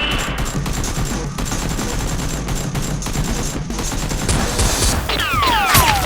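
Sustained rapid gunfire from a battle sound track, shot after shot in a continuous volley. Near the end come a few falling whistles.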